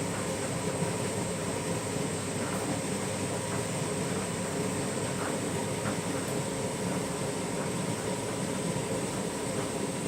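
Candy front-loading washing machine running a wash cycle, its drum turning: a steady mechanical rumble.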